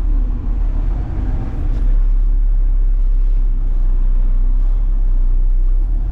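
Front-load garbage truck's diesel engine running with a steady low rumble.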